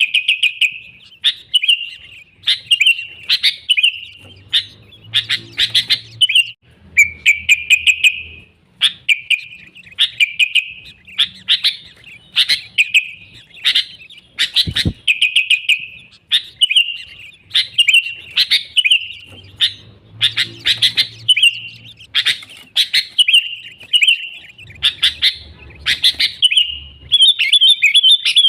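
Sooty-headed bulbul (kutilang) singing nonstop, short phrases repeating about once a second. This is the kind of lively song used as a lure to call in wild bulbuls.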